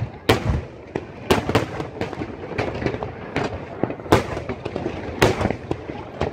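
Aerial fireworks shells bursting overhead in a rapid, irregular series of sharp bangs, about two a second, the loudest near the start and again around four and five seconds in.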